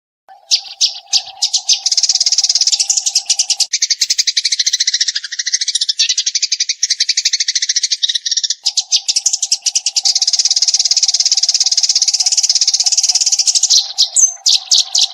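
Eurasian tree sparrow chattering in a fast, continuous run of short high chirps, the rapid-fire 'tembakan' song, cutting off suddenly at the end. A faint steady low hum sits underneath for much of it.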